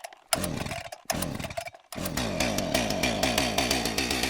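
Chainsaw engine running with the pitch swinging up and down as it revs, in three bursts with short gaps between them, the last one running on.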